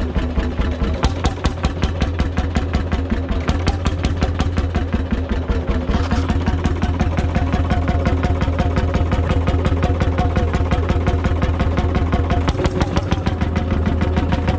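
Vintage McDonald PB two-stroke 'super diesel' engine running steadily, with rapid, even firing beats.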